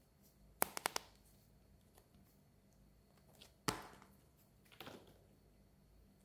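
Toys and packaging handled close to the microphone: a quick run of four sharp clicks about half a second in, then a louder sharp tap with a brief tail a little past the middle, and a softer one about a second later.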